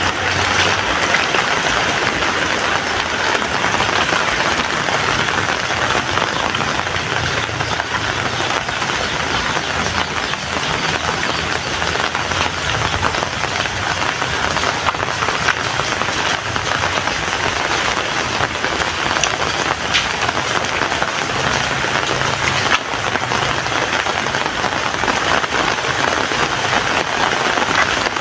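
Heavy rain falling steadily, a dense even patter of drops hitting surfaces.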